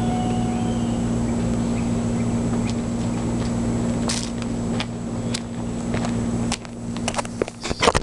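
Chevrolet Camaro Z28's LS1 V8 idling steadily through an SLP Loudmouth exhaust, with no revving. Near the end the engine sound drops away and a quick series of knocks and clicks follows.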